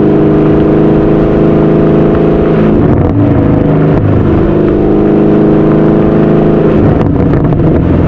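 2016 Camaro SS's 6.2-litre LT1 V8 through an AWE Track Edition axle-back with the mufflers deleted, in effect straight-piped, being revved: held at raised revs, falling back about three seconds in, rising again and falling back once more near the end.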